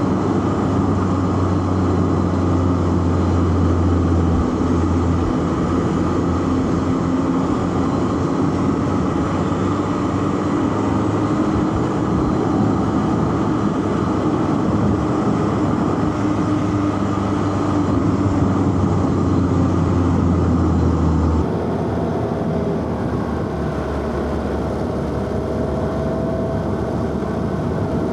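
Four-cylinder car engine running at a fairly steady pitch under way, with tyre and wind noise and a strong low drone. About 21 seconds in the sound changes abruptly: the low drone drops away and a thin higher tone comes in.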